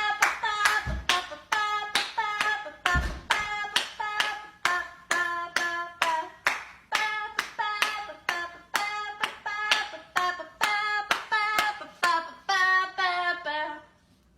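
A parrot beatboxing on request: a steady rhythm of sharp clicks, about two or three a second, each with a short pitched note that changes pitch from beat to beat.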